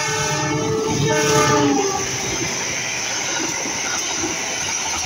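Diesel locomotive horn sounding a long chord of several tones as the train approaches and passes, its pitch dropping slightly as it goes by. After about two seconds the horn gives way to the steady rush and rumble of passenger coaches passing close by.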